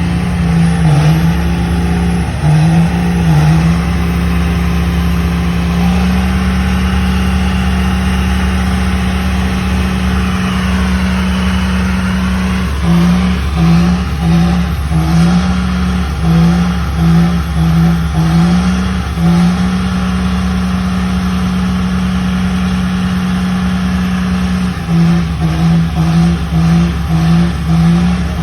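Truck engine revving hard during a burnout. It holds a steady high pitch for long stretches and cuts in and out about twice a second in between.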